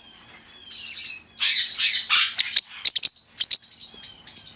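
Parrotlet chirping and chattering in quick high bursts, starting with a few faint falling whistles and then a run of sharp clicks in the middle.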